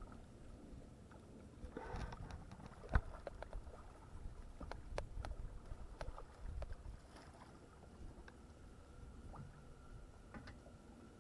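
Scattered small clicks and knocks of gear moving in a fishing boat, with one sharper knock about three seconds in, over a low rumble of wind and water.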